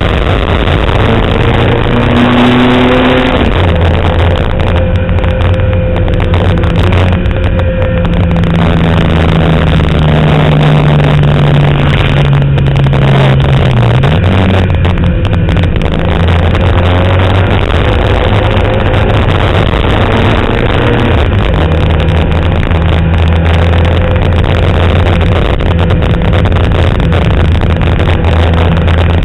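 Fiat 127 Abarth's four-cylinder engine running hard at high revs, heard from inside the race car's cabin. The pitch climbs and drops with the gear changes, falling sharply about fourteen seconds in.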